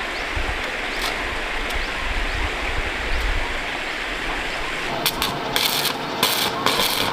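Steady rush of stream water. From about five seconds in, several short, loud bursts of crackling hiss, typical of an electric arc welder striking and running on the bridge's iron frame.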